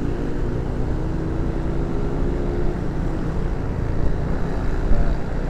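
Motorcycle engine running while riding, its pitch easing slightly lower over the first few seconds, over a steady rumble of wind and road noise.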